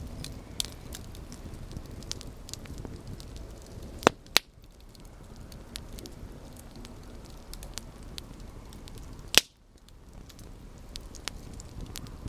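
Campfire burning: a steady low rumble of flames under constant small crackles, with sharp pops of burning wood, two close together about four seconds in and another about nine seconds in.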